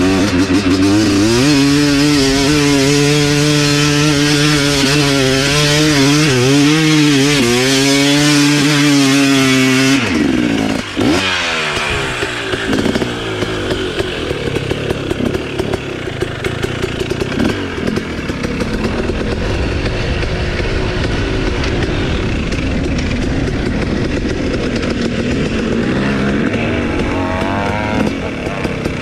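Dirt bike engine running hard on a hill climb, its pitch wavering up and down with the throttle. About ten seconds in it drops off sharply to a lower, uneven running with intermittent blips.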